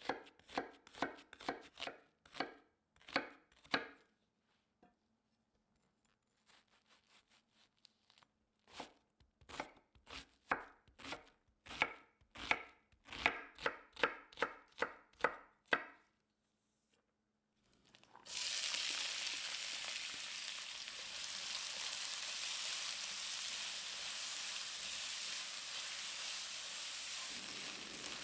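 Knife chopping on a cutting board in quick, regular strokes, about two or three a second, with a brief pause partway. After a couple of seconds of quiet, food in hot oil in a pan starts sizzling suddenly and keeps sizzling steadily.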